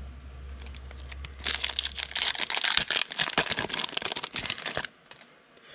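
Foil wrapper of a trading-card pack being torn open and crinkled by hand: a dense crackling rustle from about a second and a half in to near the end.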